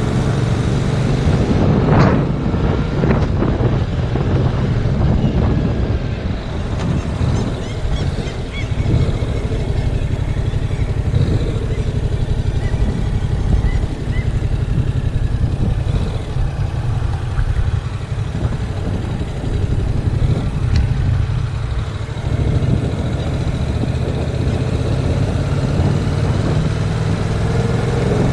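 Heavy wind noise buffeting a GoPro Hero 5 Black's microphone on a moving motorcycle, over the steady running of a 2019 Yamaha MT-07's parallel-twin engine. A couple of sharp knocks come about two to three seconds in.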